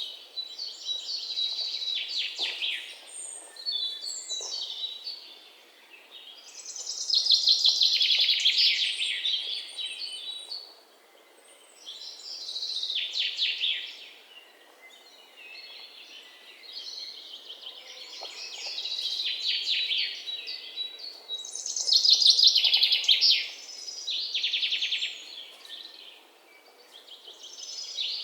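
Bird chirping and trilling in high-pitched bursts of a few seconds each, with short quieter gaps between.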